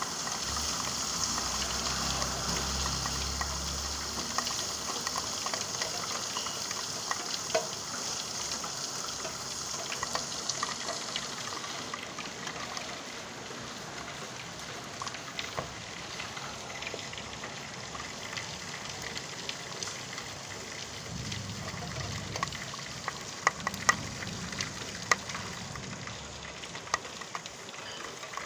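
Rain falling steadily, a continuous hiss with many small drop clicks, and a few louder drips striking a surface about two-thirds of the way through. A low rumble sits under the first few seconds.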